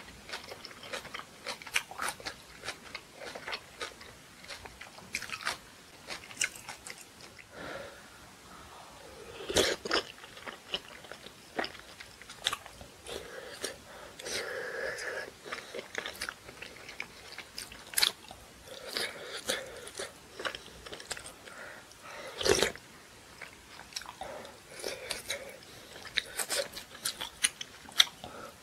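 Close-miked eating: a person chewing spicy kimchi and rice cake dumpling soup, with crunches and wet mouth sounds. Two louder knocks come about ten seconds in and past twenty-two seconds.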